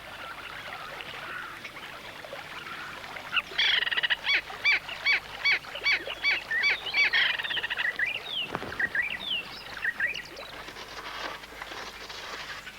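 Giant kingfisher calling: a fast run of harsh repeated notes, about three a second for some four seconds, then a few single down-slurred notes.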